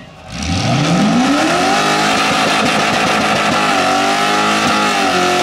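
Supercharged, methanol-fuelled Holden Commodore burnout car: the engine drops off briefly, then revs up over about a second and a half and is held at high revs, its rear tyres spinning on the pad.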